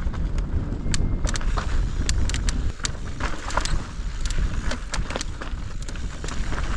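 Mountain bike riding over a rough trail: tyres rolling on dirt and stones, with the bike's chain and parts rattling in quick irregular clicks over a low rumble.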